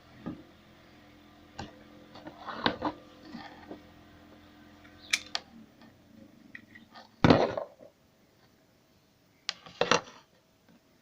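Hard objects being handled: scattered clicks and knocks, with the loudest clatter about two-thirds through and two more knocks near the end. A faint low hum runs under the first half and stops about halfway.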